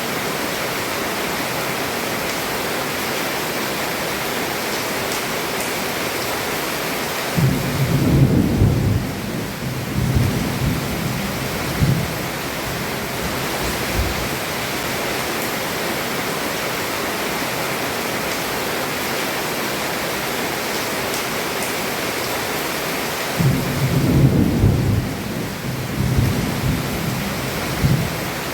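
Heavy rain falling steadily on a roof, with two low thunder rumbles, one about a quarter of the way in and one near the end, each lasting a few seconds.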